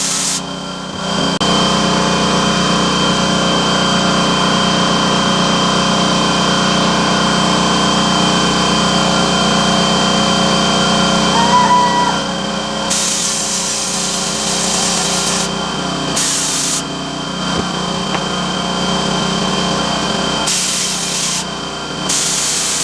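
Handheld electric grinder running steadily while grinding a steel wood-chipper blade to sharpen it, the hiss of the wheel on the steel coming and going several times as it is pressed on and eased off.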